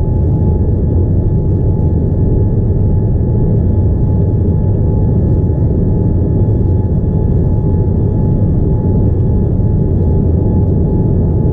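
Steady cabin noise aboard a Boeing 787-9 airliner in flight: a dense, even low rumble of airflow and engines with a constant mid-pitched whine over it.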